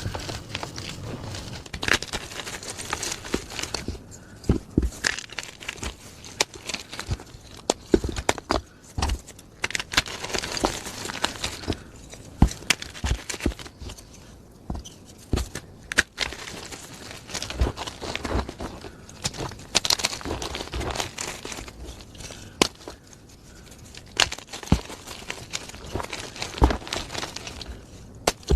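Plain gym chalk being crushed: irregular crisp crunches and crackles over a soft, crumbly rustle.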